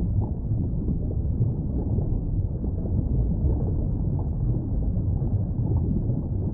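A steady, muffled low rumbling noise with no distinct events and nothing in the upper range.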